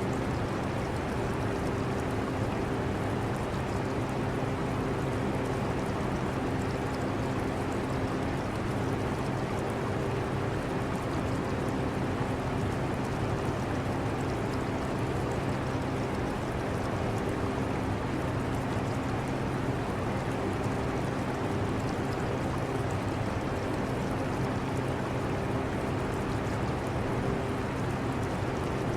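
Portable air conditioner running steadily, a constant hiss with a low, even hum, mixed with water trickling in an aquarium.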